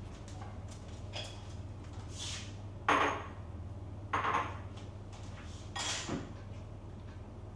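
Kitchenware being handled: three sharp clattering knocks about a second or so apart, the first with a brief ringing clink, over a steady low hum.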